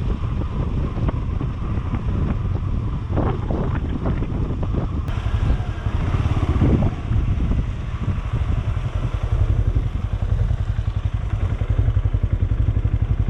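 Benelli Imperiale 400's single-cylinder engine running while the motorcycle is ridden, a steady pulsing exhaust note with wind on the microphone.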